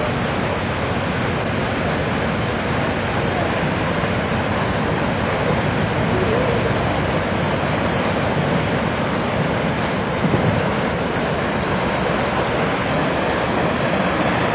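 Steady rushing of water pouring into a canal lock chamber through the opened paddles as the lock fills.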